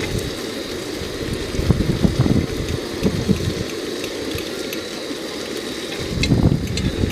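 Strong gusty wind buffeting the microphone, a low rumbling noise with scattered short rattles and clicks; the rumble eases in the middle and surges again about six seconds in.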